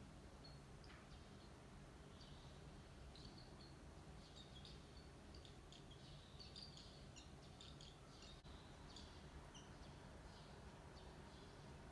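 Barn swallow nestlings about five days old cheeping in the nest: many short, faint, dry, high chirps, thicker through the middle and later part, over a steady low hum.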